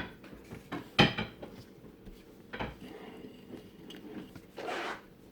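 Kitchenware clattering as bread dough is handled: two sharp knocks, one at the start and one about a second in, a fainter knock later, and a short scrape near the end.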